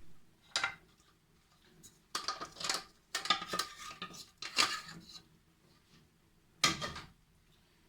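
Metal kitchen utensils and cookware clinking and scraping in irregular bursts, with a sharp clatter near the end.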